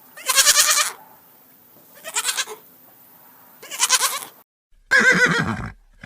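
Farm animal calls: three short calls with a wavering pitch, about a second and a half apart. After a brief break comes a different, lower-sounding call near the end.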